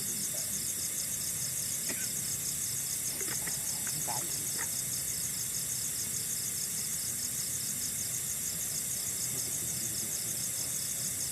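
A steady chorus of night insects in tropical forest: a continuous high-pitched, rapidly pulsing trill. A few faint clicks sound a couple of seconds in.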